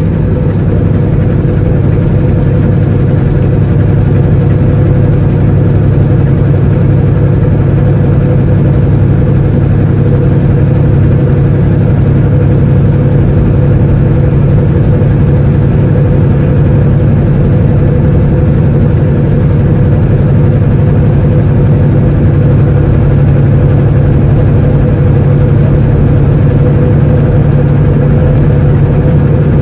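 Semi-truck's diesel engine running with a steady, unbroken drone.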